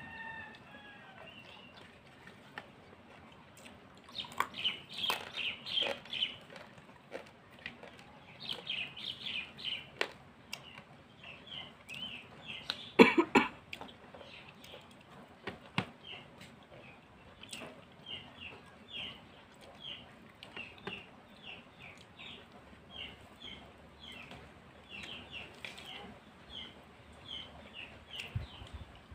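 Birds calling in runs of short, quick chirps, over and over. About halfway through comes one loud, sharp sound.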